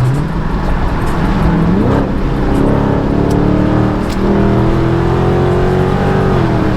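Dodge Charger Scat Pack's 392 HEMI V8 exhaust with a mid muffler delete, accelerating: the engine note climbs about two seconds in, keeps rising slowly, then drops off near the end.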